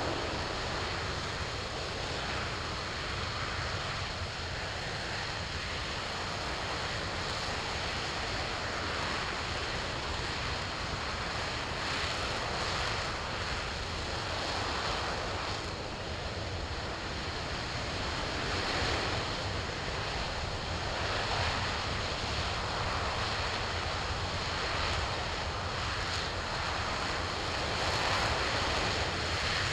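RS-25 liquid-hydrogen rocket engine firing on a test stand: a continuous rushing roar that surges and eases slowly without ever stopping.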